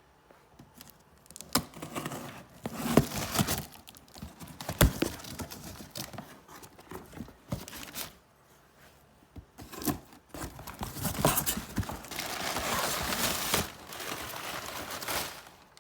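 A shipping package being opened by hand: tearing and crinkling of the packaging, with scattered knocks as it is handled. The crinkling is densest and longest near the end.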